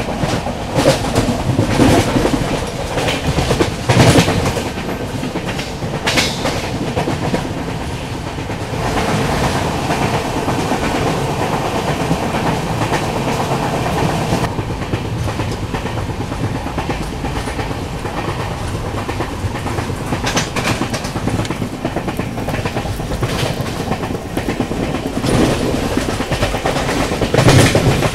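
Express passenger train running along the track, heard from on board: a steady rumble of the coaches with wheels clacking over the rails, and a few sharper, louder clacks at irregular moments.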